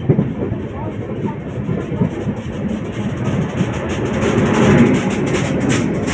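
Indian Railways express train passing on the adjacent track at close range: coaches rumbling and wheels clacking over the rails, then a WAP-7 electric locomotive going by. It is loudest about four to five seconds in.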